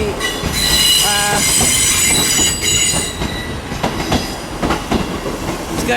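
East Midlands Railway Class 158 diesel multiple unit running through the platform, its wheels squealing with several steady high-pitched tones over the rumble of the train. The squeal is strongest for the first three seconds, then dies down while the rumble carries on.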